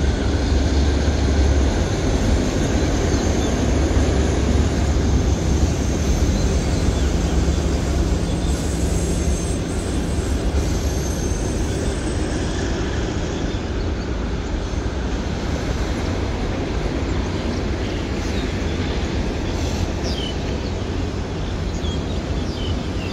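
Freight train of container wagons rolling away along the track: a steady rumble and rattle of wheels on rail that slowly fades as the train recedes.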